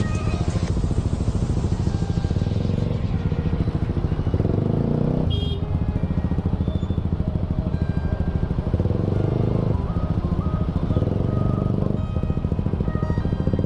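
Motorcycle engine running steadily while being ridden, picking up revs several times as it speeds up and eases off.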